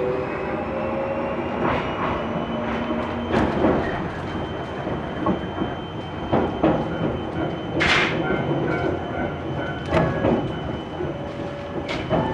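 Aizu Railway 6050 series electric train running on the rail, heard from inside the car: a steady motor whine that creeps up in pitch as the train picks up speed, with irregular wheel clacks over rail joints and a short hiss about eight seconds in.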